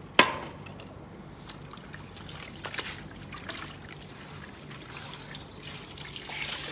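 Water trickling, with one sharp click just after the start and a faint steady hum underneath.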